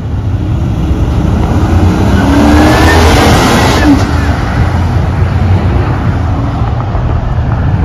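Car engine revving hard and accelerating past, rising in pitch and loudest about three seconds in, over a deep steady exhaust rumble.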